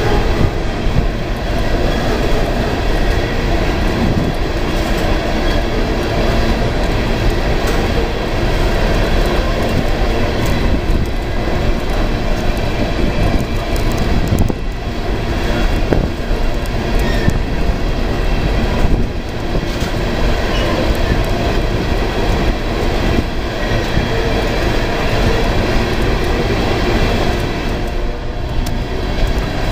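Freight train of hopper cars rolling steadily past close by: loud, continuous noise of steel wheels running on the rails, with occasional knocks.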